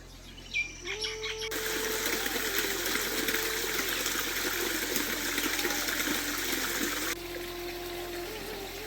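A steady rush of water that cuts in about a second and a half in and stops abruptly near the end, over a faint melody line.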